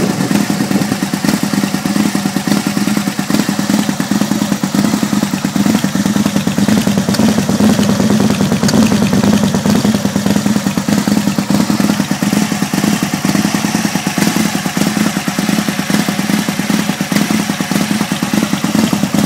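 2003 Aprilia Tuono's 998 cc V-twin idling steadily through a Hawk Black Round SL aftermarket exhaust.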